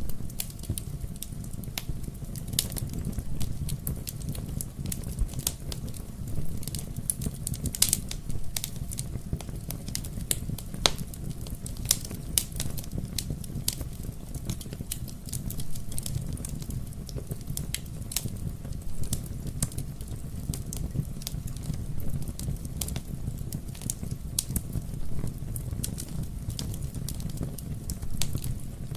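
Wood fire burning in a fireplace: a steady low rumble with frequent irregular crackles and pops, a few sharper snaps among them.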